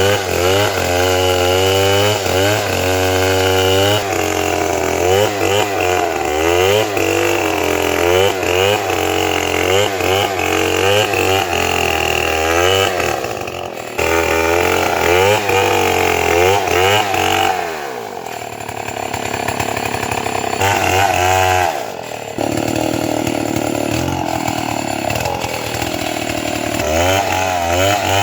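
Two-stroke chainsaw engine running and revving while cutting timber, its pitch rising and falling over and over as the chain bites and frees. The sound changes abruptly a few times, with a quieter, steadier stretch near the middle.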